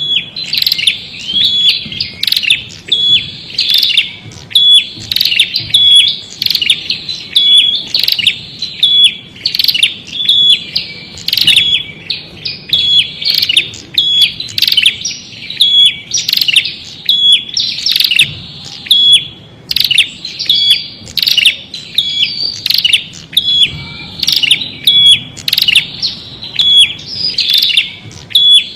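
Prinia (prenjak) singing: a long run of sharp, high chirping notes repeated about one or two times a second.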